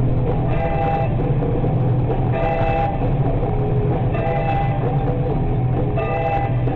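Music playing on a car radio inside the cabin, over a steady low drone of engine and road noise.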